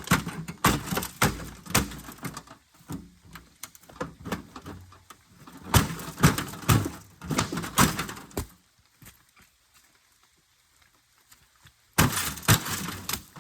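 Repeated bangs and knocks of an old rusty microwave's metal casing being struck and battered, in three bursts: a run of blows at the start, another about six seconds in, and a last flurry near the end after a few quiet seconds.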